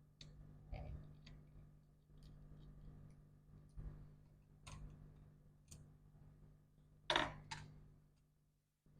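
Scattered faint clicks and taps of small tools and parts while a MacBook Pro is being taken apart, with a louder double click about seven seconds in. A low steady hum lies underneath.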